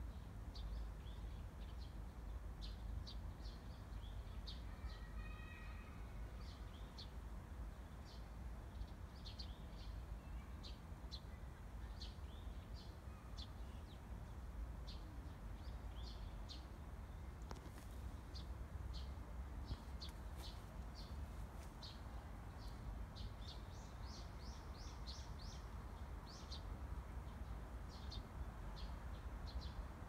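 Small birds chirping: many short, high, separate chirps, more frequent in the second half, over a steady low rumble.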